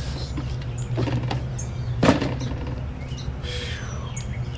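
Small birds chirping faintly over a steady low hum, with one sharp snap about two seconds in.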